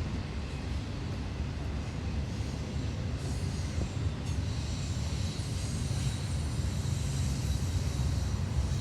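Norfolk Southern intermodal freight train's cars rolling past: a steady low rumble of wheels on rail, with a fainter high hiss joining about three seconds in.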